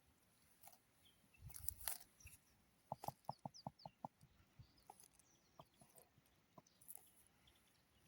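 Near-quiet, with faint scattered clicks and a brief rustle. About three seconds in comes a quick run of six short clucking calls from a bird.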